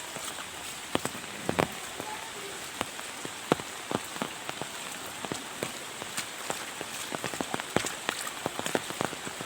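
Heavy rain falling steadily, a dense hiss, with large drops striking close by in sharp, irregular taps.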